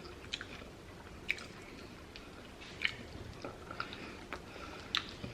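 A person chewing food close to the microphone, with scattered soft wet clicks and smacks of the mouth.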